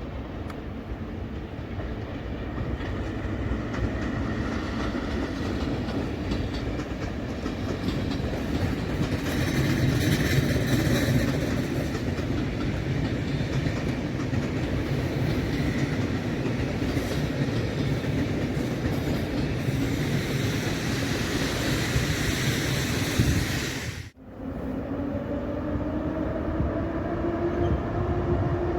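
PKP Intercity passenger train hauled by an EP07 electric locomotive moving through the station, its wheels rumbling and clattering over the rail joints. The sound cuts out briefly about three-quarters of the way through. It comes back with a steady whine that rises slowly in pitch.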